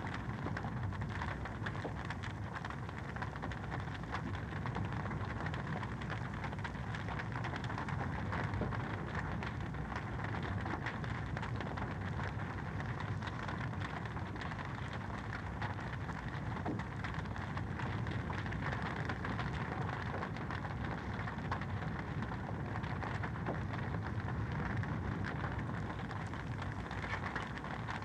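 Wood fire crackling in a fireplace: a steady, dense stream of small pops and snaps over a soft low rumble of the flames.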